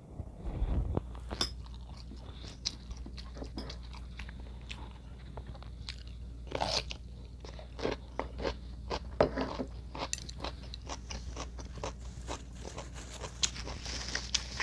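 A person chewing and crunching food close to the microphone: irregular crisp crunches and wet mouth sounds, with louder clusters of bites in the middle and near the end.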